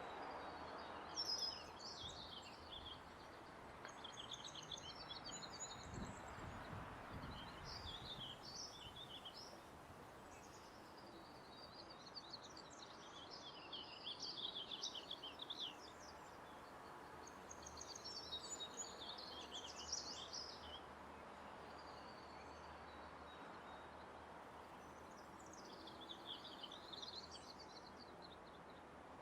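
Faint ambient soundscape: a steady background of low noise with small birds chirping in short bursts every few seconds. A brief low thud comes about six seconds in.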